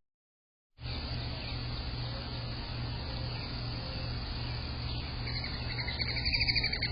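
A high, rapidly pulsed animal trill sets in about five seconds in over a steady low hum, after a brief dead dropout at the very start.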